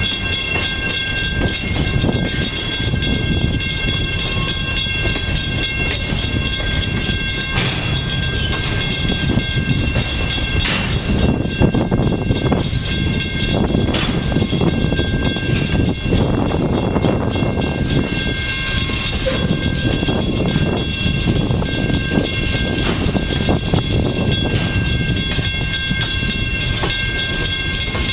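Freight cars (covered hoppers and boxcars) rolling by at low speed, wheels rumbling and clacking over the rail joints, with several steady high-pitched tones sounding throughout.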